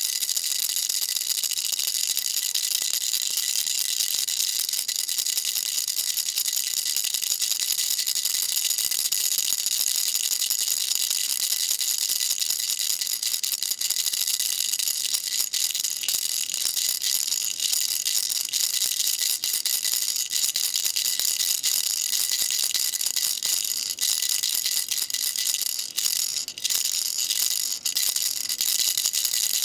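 Baby rattle shaken steadily, a dense, continuous, high crisp rattle with a few brief breaks near the end.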